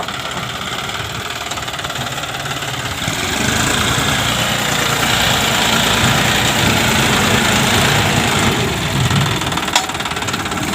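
John Deere 5050D tractor's three-cylinder diesel engine running steadily, growing louder a few seconds in and easing back near the end.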